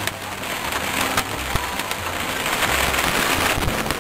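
Heavy rain pelting a moving car's windshield and roof, a dense patter of drop impacts over the low rumble of road and engine noise inside the cabin.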